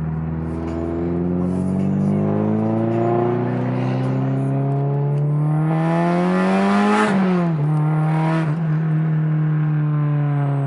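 Straight-piped Honda K24 four-cylinder in an Acura RSX pulling through the revs at half throttle toward VTEC at about 4,500 RPM. The engine note climbs steadily and turns harsher and louder about six seconds in. It falls sharply a second later as the throttle comes off, then settles to a steady lower drone.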